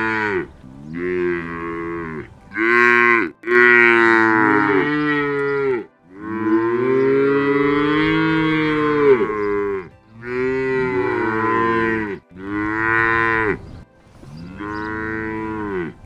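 Cattle mooing: a string of about seven moos one after another with short gaps between them, the longest held for nearly four seconds.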